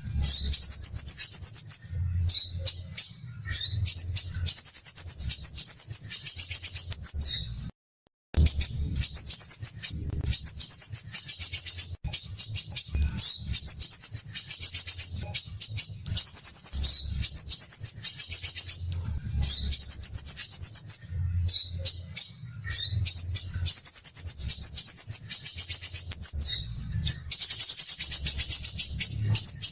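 Crimson sunbird giving its dense, coarse, rapid chattering song: strings of fast, high-pitched notes repeating with short breaks. The sound cuts out completely for about half a second, about eight seconds in.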